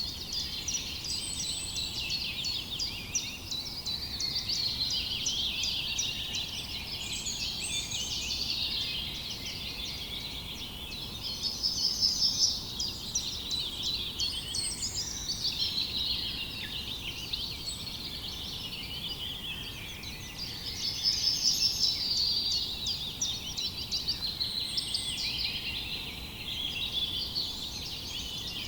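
A dense chorus of many songbirds chirping and singing over one another, with louder bursts of rapid repeated notes about twelve seconds in and again about twenty-one seconds in.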